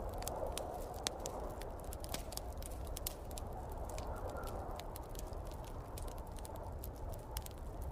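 Wood fire crackling, with many sharp irregular pops, over a steady rushing wind and low rumble of a snowstorm.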